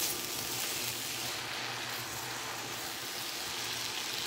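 Chopped okra and vegetables sizzling in oil in a large pot, a steady hiss.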